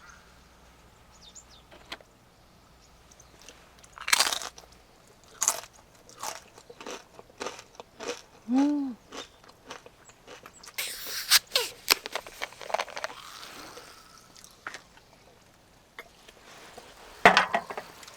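Crunchy snack being bitten and chewed close to the microphone: irregular crunches, a dense run of them a little past the middle. A brief pitched sound comes about halfway through.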